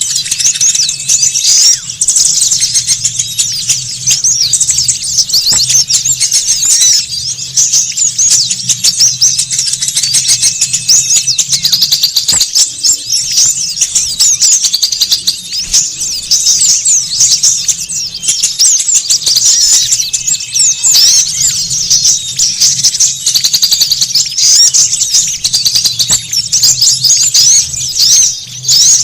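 A flock of small songbirds twittering and chirping rapidly, many short high calls overlapping without a break: a noisy small-bird lure recording.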